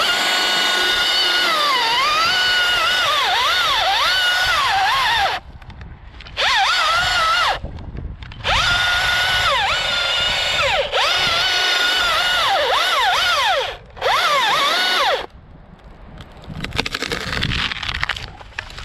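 Two-stroke chainsaw run at full throttle in five bursts, its high whine dipping in pitch again and again as the chain bogs into the wood and recovers: cutting wood. After the last burst, about three seconds before the end, the saw drops back to a quieter, uneven running.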